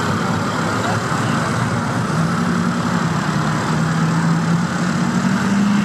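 Car engines running as cars drive slowly past, a low steady engine note that comes up about two seconds in and edges up in pitch near the end.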